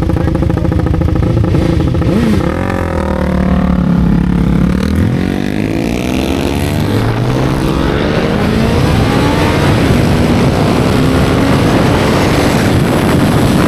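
Motorcycle engine running under way, its note dropping about two seconds in and then climbing steadily over several seconds as it accelerates through the gears.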